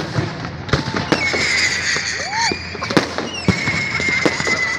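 Festive fireworks salute: a rapid run of sharp bangs and pops, with a high whistling tone held for a second or two, twice.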